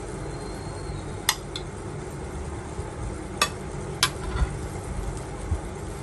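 Three sharp clinks of eating utensils against dishware, about a second in and then two close together past the middle, over a steady low rumble.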